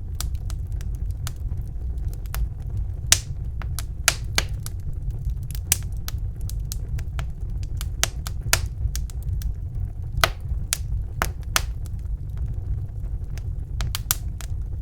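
Wood fire crackling in a fireplace: irregular sharp pops and snaps, a dozen or more, over a steady low rumble.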